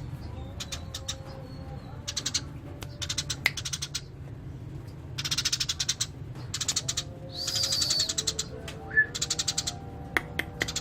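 Eurasian tree sparrows chirping in rapid rolling trains, several bursts of quick chirps with short pauses between, over a steady low hum.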